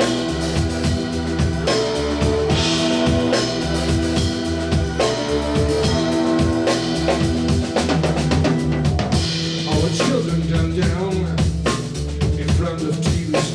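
Live rock band playing an instrumental passage: drum kit keeping a steady beat with cymbal crashes about three seconds in and again near the ninth second, over bass, guitar and sustained chords.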